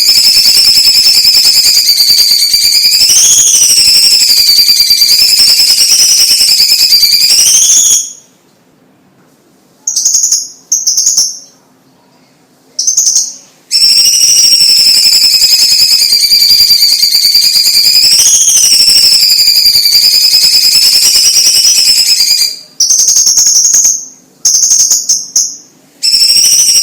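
Chinese leafbird (cucak ijo cina, cucak cungkok) singing in long, rapid, buzzy high trills that swell up and down in pitch, each lasting several seconds. Between them come a pause and a few short bursts.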